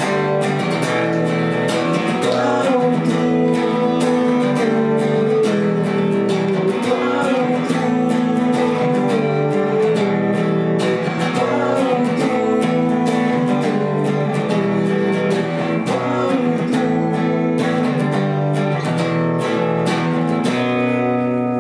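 Acoustic guitar strummed in chords through a song's instrumental outro, playing live.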